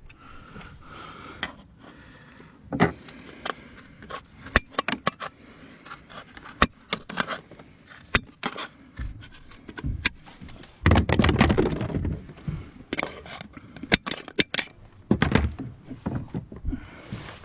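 Irregular taps, clicks and scraping from handwork on fibre-cement artificial slates. A louder stretch of scraping and rustling comes about eleven seconds in.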